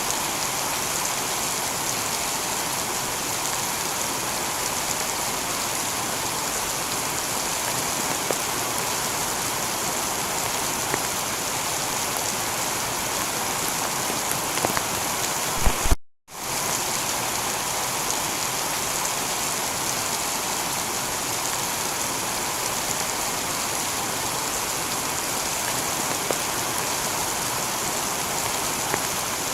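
Heavy rain falling steadily on a tiled roof, an even dense hiss with a few sharper drip strikes. About 16 seconds in, the sound cuts to silence for a moment and then fades back in, like a loop point in the recording.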